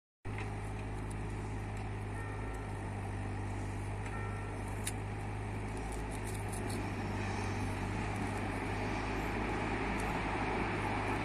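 A train's engine running with a steady low hum that grows slowly louder. Two brief, faint high tones come about two and four seconds in.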